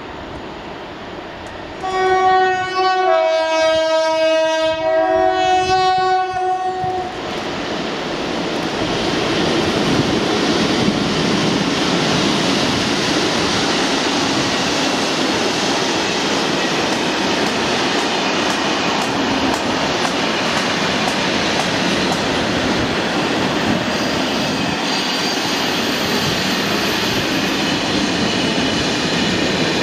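Class 60 diesel locomotive 60076 sounding its two-tone horn for about five seconds, high, low, then high again, as it approaches. It is followed by the long steady noise of the freight train passing, the locomotive and then a long rake of covered steel-coil wagons rolling by on the rails.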